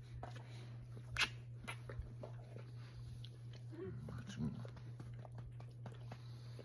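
A Doberman's short whining grumble about four seconds in, among rustling and clicking, with one sharp click about a second in; a steady low hum runs underneath.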